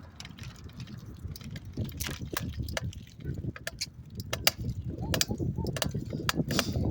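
Bicycle riding: a steady low rumble of wind and tyre noise, with sharp rattling clicks that come thick and fast through the second half.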